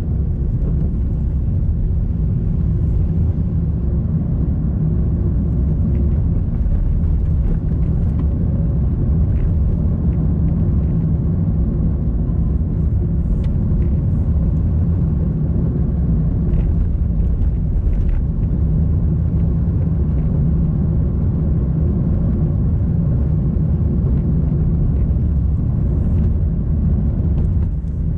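Car driving along a road: steady low engine and tyre rumble with a faint engine hum and a few faint clicks.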